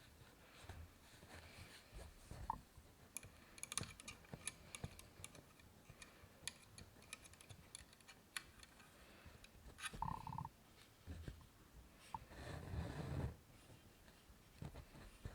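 Faint, irregular small clicks and taps with soft rustles from hand embroidery: needle, thread and fabric being handled.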